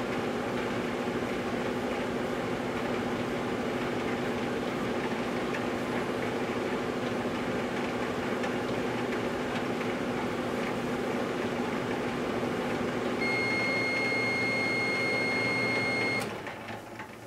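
Microwave oven running with a steady hum. Near the end its end-of-cycle beep sounds as one long, high tone for about three seconds, and the hum and the beep cut off together with a click as the cooking cycle finishes.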